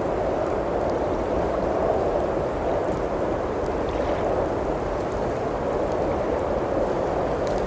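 Steady rushing of blizzard wind with gentle swells, and faint scattered crackles of a wood fire.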